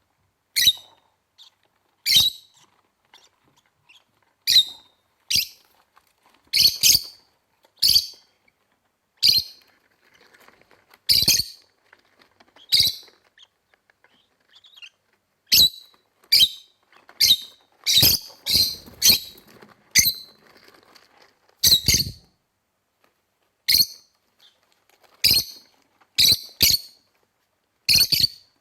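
Rosy-faced lovebirds giving short, sharp, high chirps, one about every second at an uneven pace, some in quick pairs or short runs.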